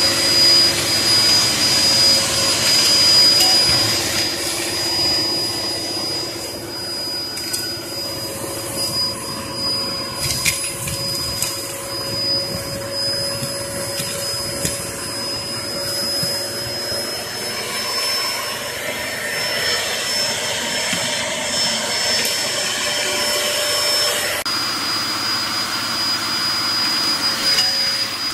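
Hoover Performer Pet HPT16 upright vacuum cleaner running steadily with a high motor whine, picking up fireplace ash, with a few brief clicks about ten seconds in.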